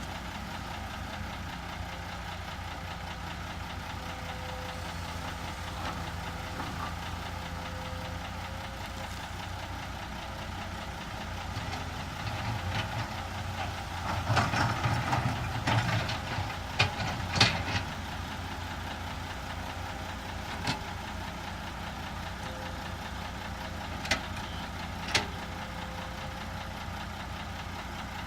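Heavy diesel construction machinery running steadily. It works harder and louder for several seconds in the middle, and short sharp metallic clanks come a few times in the second half.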